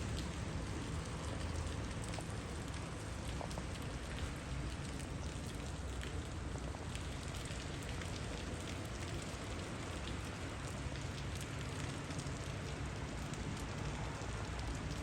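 Heavy rain falling: a steady hiss with scattered ticks of single drops, over a low rumble.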